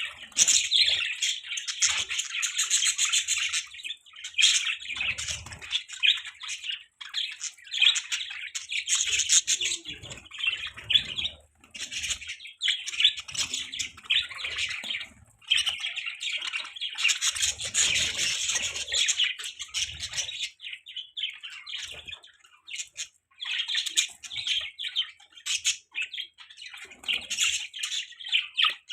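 Budgerigars chirping and warbling in rapid chattering runs, with short squawks and brief pauses between bursts.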